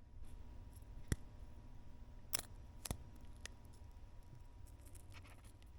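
A few sharp plastic clicks and lighter ticks from handling the hardener tube and plastic tools while a ribbon of cream hardener is squeezed across a puddle of body filler in a bowl, over a faint steady hum.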